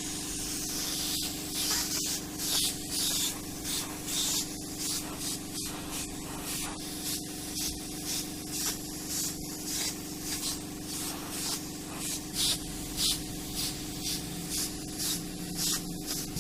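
Paint spray gun applying primer to car body panels in short repeated passes, a hiss coming and going about twice a second over a steady low hum.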